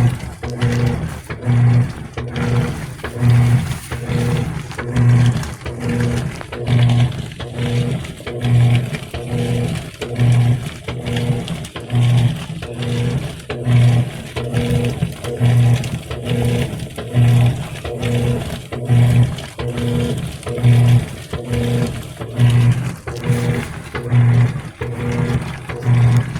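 GE Spacemaker laundry center's top-load washer agitating during the wash phase: the motor hum swells and drops with each agitator stroke, with water sloshing, in a steady rhythm that peaks about every second and three-quarters.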